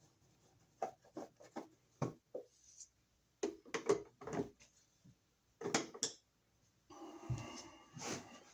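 Scattered knocks, clicks and rubbing from handling tools and receptacle parts by hand, with a denser, steadier noise starting near the end.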